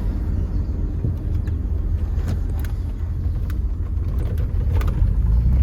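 Pickup truck's low, steady rumble of engine and road noise, heard from inside the cab.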